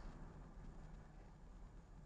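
Near silence: only a faint, steady low hum, typical of a car cabin's engine and road noise heard through a dashcam.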